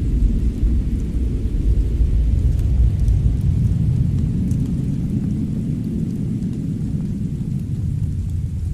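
Fireplace and winter-storm ambience: a deep, steady rumble that eases a little toward the end, with faint, sparse crackles of burning wood.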